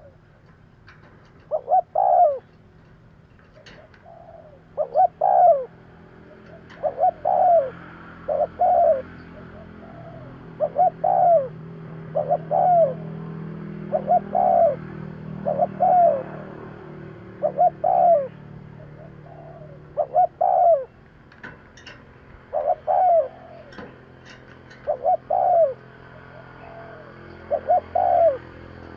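Spotted dove cooing repeatedly, each call a quick group of two or three low notes, coming about every two to three seconds.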